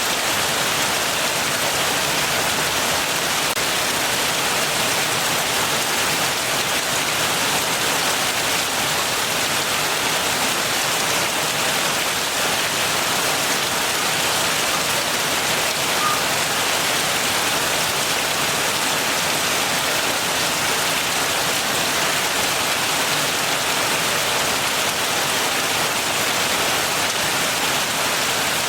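Steady heavy rain falling, an even, unbroken hiss of dense drops hitting surfaces.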